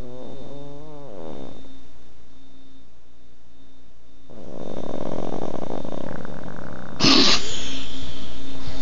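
Pug snoring in its sleep: a wavering, pitched snore in the first second or so, a quiet pause, then a longer rattling snore from about four seconds in. A sudden loud burst of noise comes about seven seconds in.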